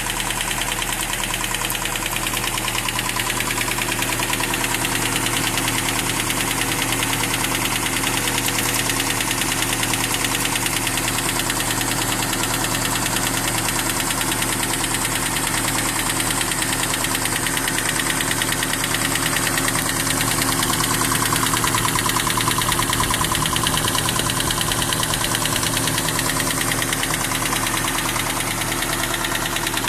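Toyota 22R four-cylinder engine in a 1992 Hilux running steadily, with a fast, even clicking over the engine note, a noise whose cause the owner does not know.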